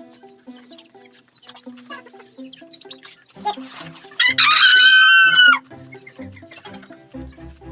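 A rooster crows once, loud and held for over a second, about four seconds in, with its pitch bending down at the end. Background music with a stepping melody plays throughout.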